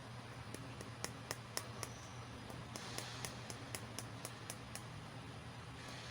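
Small plastic toy pieces being handled and set down: light clicks and taps at an irregular pace, with brief rustling twice.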